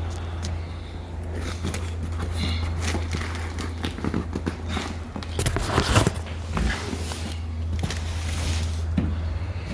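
Irregular knocks, clicks and scrapes of cargo straps and the load being handled in a box truck, over a steady low hum.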